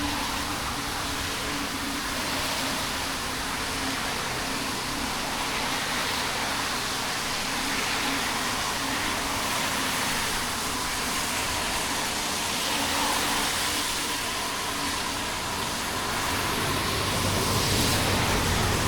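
Steady rushing noise of a bicycle ride on a wet road in light rain, with wind and tyre hiss. Traffic grows louder over the last few seconds.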